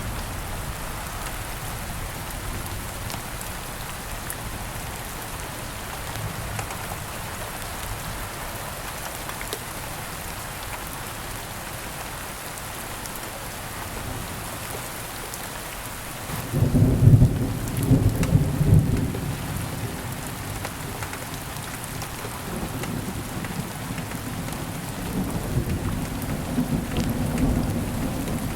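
Steady rain falling, with a low rolling rumble of thunder about two thirds of the way in that swells for a few seconds, and a fainter rumble near the end.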